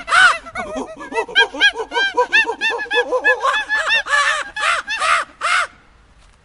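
Birds calling: a fast, overlapping run of short, arched calls, several a second, that stops sharply about five and a half seconds in.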